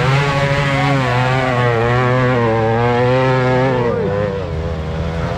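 Motocross bike engine held at high revs with a slightly wavering pitch, then backing off about four seconds in.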